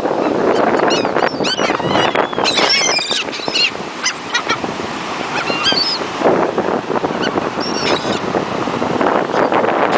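Gulls calling, many short, sharp cries overlapping, bunched about one to four seconds in and again around six to eight seconds, over a steady rush of wind.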